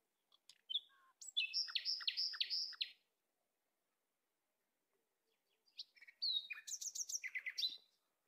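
A songbird singing two phrases of quick, high chirping notes, the first about a second in and the second near the end, with a pause of a few seconds between.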